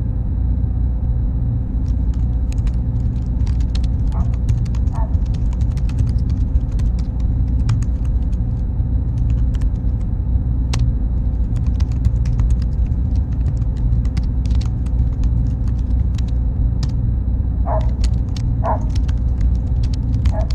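Steady low rumble with a faint high tone over it. From about two seconds in, scattered clicks and ticks come through, with a few short chirps near the middle and again near the end.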